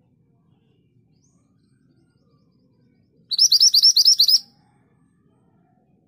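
Scarlet minivet calling: one quick run of about eight sharp, high notes lasting about a second, a little past halfway through.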